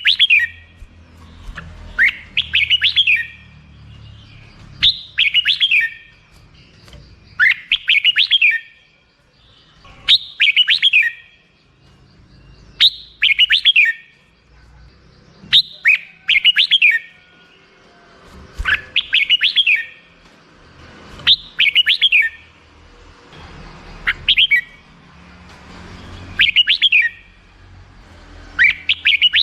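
Red-whiskered bulbul singing: a short, bright warbled phrase of quick rising and falling notes, repeated about every two and a half to three seconds, a dozen times over.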